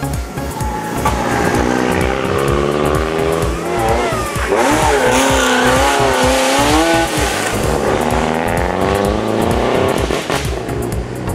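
A car's engine revving hard as it comes closer, rising in pitch, wavering up and down through the middle as the throttle is worked, then falling away near the end, over background music with a steady beat.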